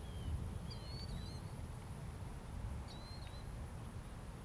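Birds chirping outdoors: several short, high calls a second or two apart, over a low rumble.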